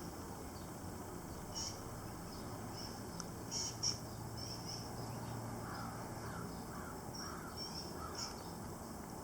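Birds calling faintly: short high chirps scattered throughout, and a run of about five repeated calls in the middle.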